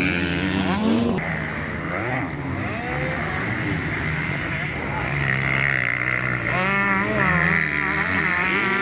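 Several 250 cc motocross bikes racing, their engines revving up and down as the riders work the throttles, with a quick run of rising revs about two-thirds of the way through.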